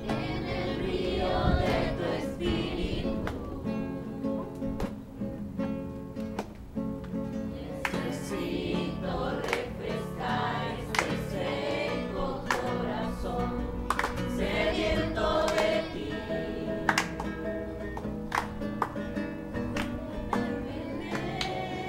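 A group of people singing a religious song with guitar accompaniment, with sharp beats recurring through it.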